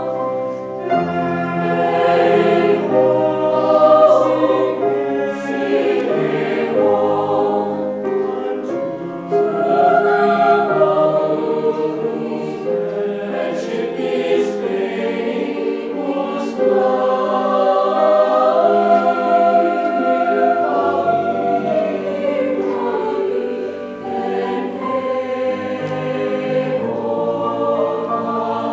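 A chamber choir singing several voice parts in harmony, held notes moving together, with the 's' sounds of the words audible now and then.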